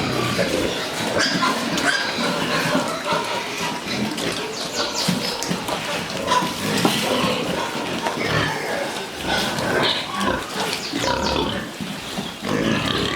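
A group of pigs vocalizing together: a dense, continuous mix of overlapping grunts and higher-pitched calls.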